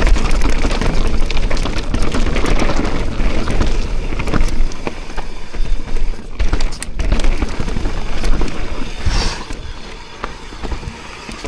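Mountain bike riding fast down a dirt trail: wind buffeting the microphone over tyre noise and the steady clatter and rattle of the bike over rough ground, getting quieter near the end.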